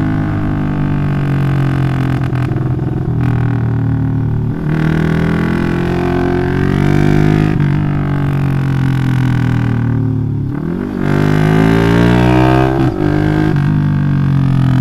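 Bored-up 180cc Yamaha Jupiter MX single-cylinder four-stroke motorcycle engine with an aftermarket Requsan exhaust, riding under load. The exhaust note dips and climbs again in pitch several times.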